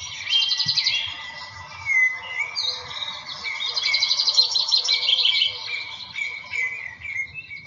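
Birds chirping and singing, with rapid high trills and short whistled glides.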